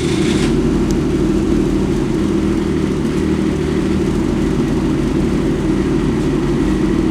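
An engine running steadily at a constant speed, an even low hum with no revving.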